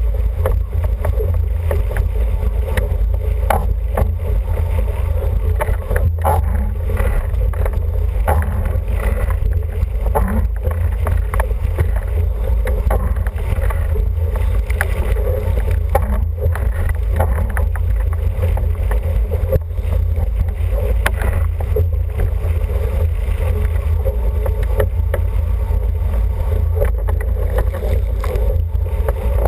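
An International 14 sailing dinghy underway: steady water rush and slapping along the hull, under heavy wind buffeting on the microphone.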